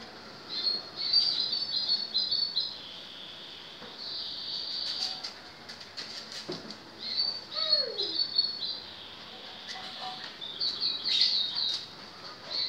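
Small bird chirping in quick runs of high, stepped notes, repeated in four or five bursts.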